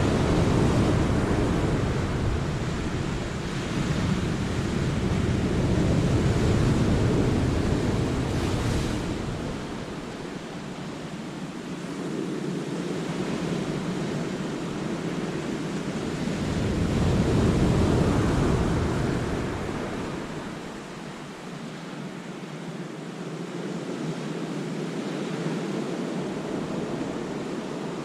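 Sea waves surging and washing over the rocks of a cove, a steady rushing that swells loud twice, once in the first half and again about two-thirds of the way through, and eases off in between.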